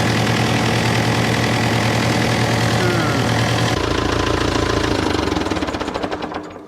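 Tractor engine running steadily at raised throttle, driving a power steering pump whose bearing the owner thinks is shot. About four seconds in the engine is shut off and runs down, dying away near the end.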